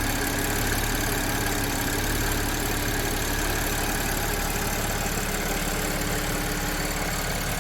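Audi A7 3.0T supercharged V6 idling steadily, with Marvel Mystery Oil added to its oil to try to quiet a timing chain rattle.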